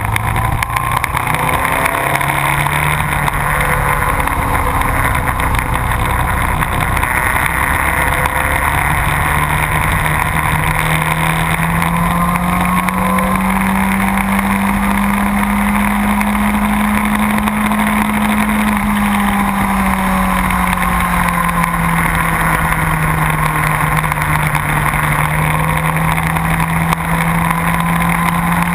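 Motorcycle engine running at speed on a track, heard from on board over a steady rush of noise. The engine note steps up early, climbs gradually to a peak past the middle, then drops and holds lower near the end.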